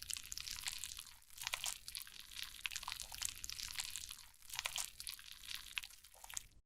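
Close-miked crisp crackling and scraping, a dense run of small clicks, as a makeup product is worked with a tool. It cuts off suddenly near the end.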